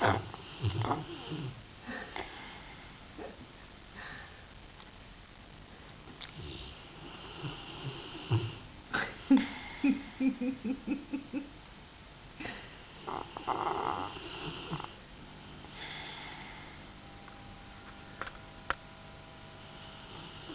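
Rottweiler snoring in its sleep: uneven snores and snorts, with a quick rattling run of about four pulses a second around the middle.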